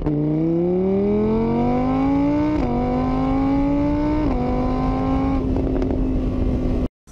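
Motorbike engine sound accelerating through the gears: the pitch climbs steadily, drops back at two gear changes about two and a half and four seconds in, then holds level before cutting off suddenly near the end.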